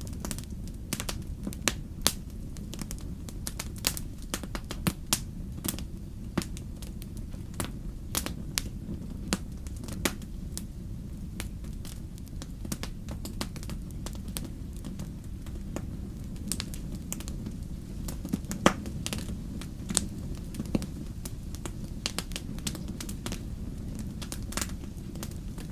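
Wood campfire burning: irregular sharp crackles and pops over a steady low rumble of the flames, with a louder snap about two-thirds of the way through.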